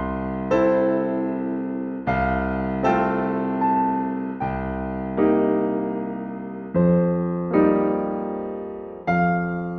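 Slow electric piano music: sustained chords struck every one to two seconds, each fading away before the next.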